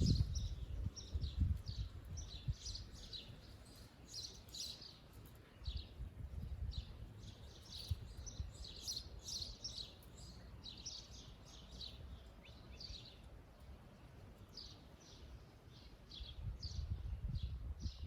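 Small birds singing, a steady run of short, high chirps and twitters, over a low rumble that comes and goes, strongest at the start and near the end.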